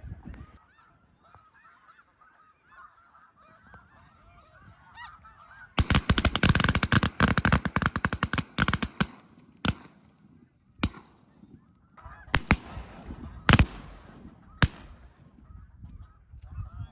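Snow goose calls chattering, then about six seconds in a few seconds of loud crackling clatter, followed by five sharp shotgun bangs roughly a second apart.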